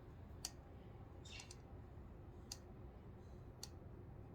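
Near silence, broken by a few faint, sharp clicks spread through the few seconds.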